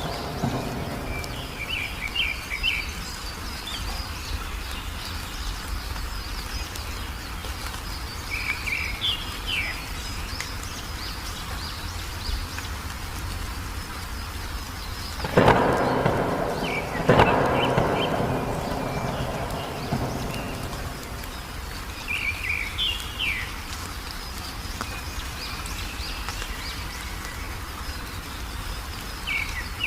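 Small birds chirping in short bursts every few seconds over a steady hiss of rain, with two sharp claps of thunder about halfway through, a couple of seconds apart, each fading away.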